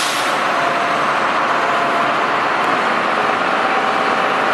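The forklift's Cummins six-cylinder turbocharged diesel engine running steadily, just after a sharp click.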